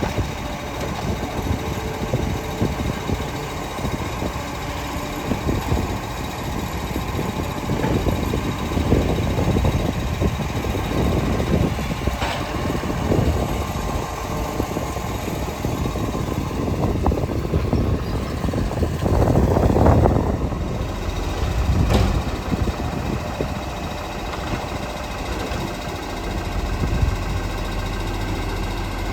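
Garbage truck's engine running, with a few sharp knocks, one about twelve seconds in and one about twenty-two seconds in.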